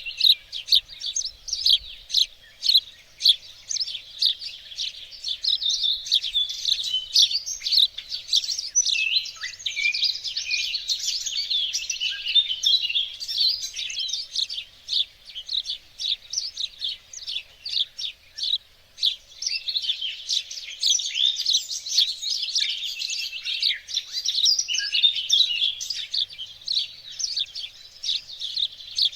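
Songbirds chirping and trilling without a break, several calls overlapping in a dense high-pitched chorus.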